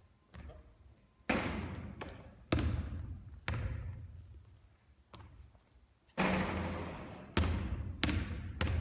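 A basketball striking hard surfaces about eight times at uneven intervals during repeated three-point shooting. Each hit is a sharp thud followed by a long fading echo.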